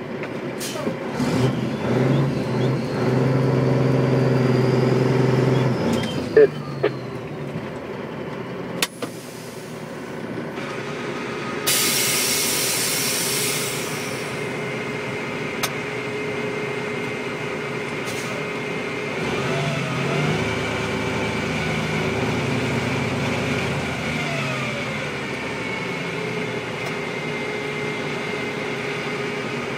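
Dump truck's diesel engine working hard for the first few seconds, then running more quietly. A burst of air hiss from the air brakes comes about twelve seconds in, and the engine then runs steadily.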